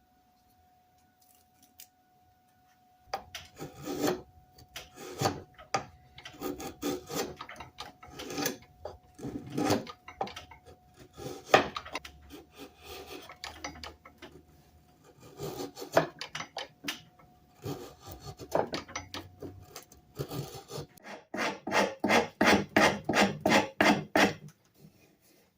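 A rasp scraping a wooden hammer handle to shape it for fitting into the hammer head. It starts about three seconds in with irregular strokes and ends with a quick run of about three to four strokes a second.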